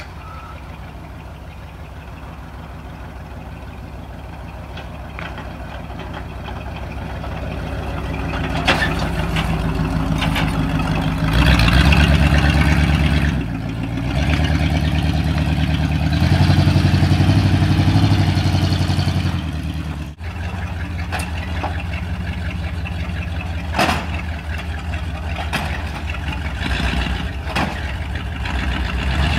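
1980 Dodge Ram pickup's engine running, growing louder over the first several seconds, then revving up in two stretches about twelve and seventeen seconds in. A few sharp knocks stand out along the way.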